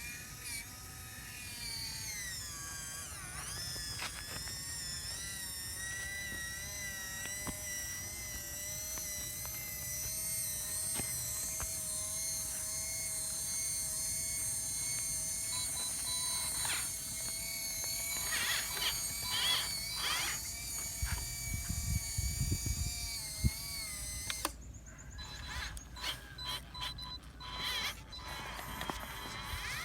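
Small electric motor and gearbox of an RC construction truck whining steadily, dipping briefly in pitch under load, then cutting off suddenly about 24 seconds in, followed by scattered clicks and rattling.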